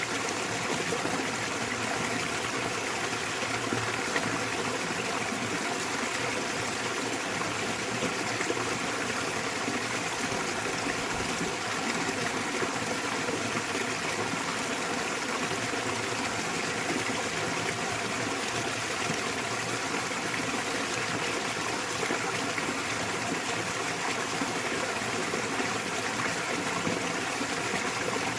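Small waterfall pouring into a mountain stream, a steady even rush of water.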